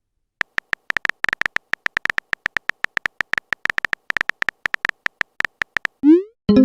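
Phone typing sound effect: a fast, irregular run of short electronic key ticks, like someone tapping out a text message. Just after six seconds a quick rising swoop follows, a message-sent alert.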